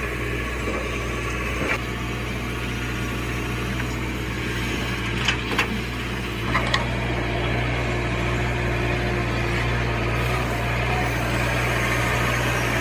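Heavy diesel engine running steadily at a low, even pitch, with a few short sharp knocks about two, five and a half, and near seven seconds in.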